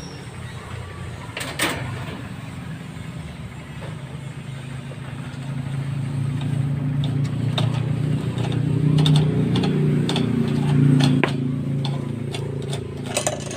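Low engine rumble of a passing vehicle that swells to a peak about nine to eleven seconds in and then fades, with scattered small clicks and knocks over it.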